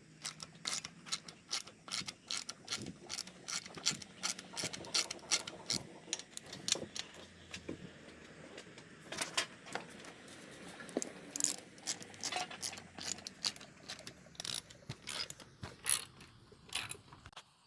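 Hand ratchet wrench clicking in short irregular runs, with small metal clicks and clinks from tools and engine parts.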